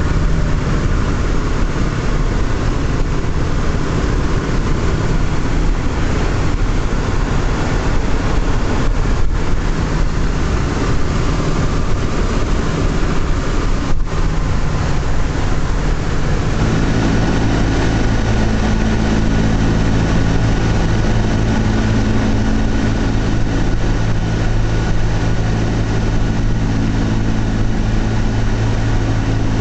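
The B-17 Flying Fortress's four Wright R-1820 Cyclone nine-cylinder radial engines running, a loud continuous drone. About 17 seconds in it changes to a steadier, more even drone with distinct held tones.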